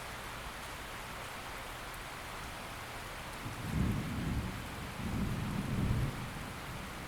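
Steady rain falling, with low rolling thunder rumbling in about halfway through in two swells that ease off near the end.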